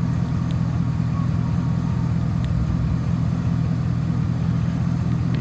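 2003 Chevrolet Avalanche's V8 engine idling steadily, an even low hum.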